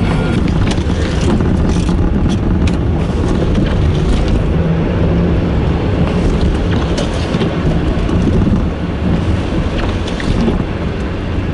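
Blizzard wind blowing hard across the microphone: a loud, steady low rumble with small scattered clicks.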